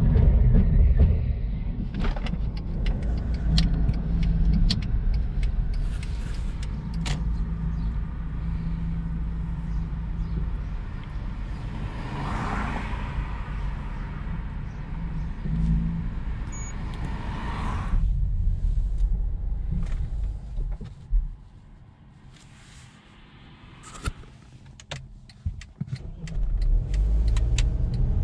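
Mercedes-Benz GLK 250 CDI's four-cylinder turbodiesel heard from the cabin, running steadily with scattered clicks while the car drives and parks. About two-thirds of the way through it falls quiet, stopped by the start-stop system, and it starts running again near the end.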